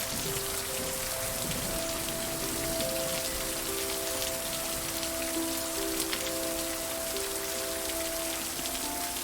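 Steady rain pattering on a surface, with a soft, slow melody of held notes playing underneath.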